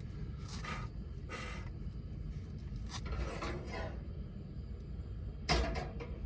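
Portable propane camp stove burner running steadily after being lit, a low rumble, with short rustles and scrapes of handling and a knock about five and a half seconds in.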